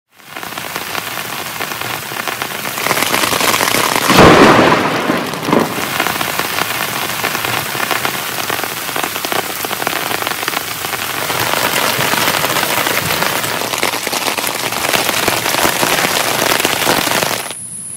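Heavy rain falling steadily, with a sharp crack of thunder about four seconds in and a smaller one about a second and a half later. The rain drops away abruptly near the end.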